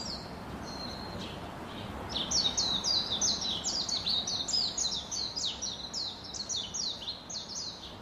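A bird calling a rapid series of short, high, downward-slurred chirps, about three a second, starting about two seconds in, over a steady hiss of outdoor ambience.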